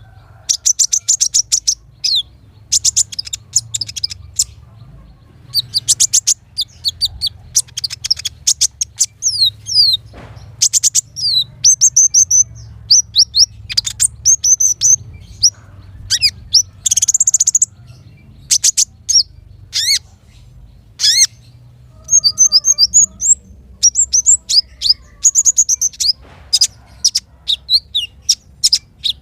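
Small songbirds singing in quick high chirps, rapid trills and short sweeping whistles, burst after burst with brief pauses.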